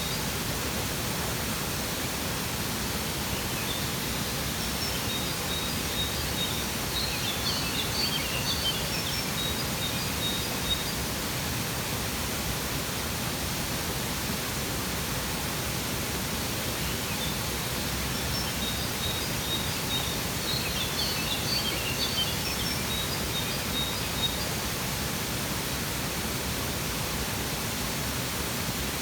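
Waterfall rushing steadily, with birds chirping in two spells, a few seconds in and again past the middle.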